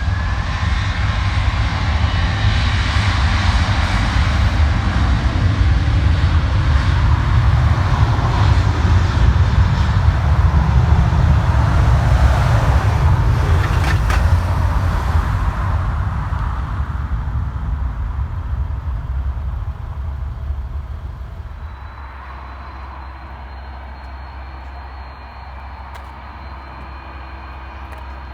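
Jet airliner passing, the engine noise swelling to a loud peak about halfway through and then fading away, leaving a quieter steady rumble.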